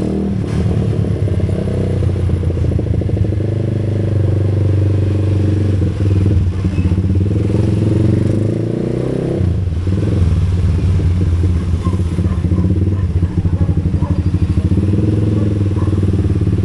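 A vehicle engine running steadily, easing off briefly about nine and a half seconds in and then picking up again.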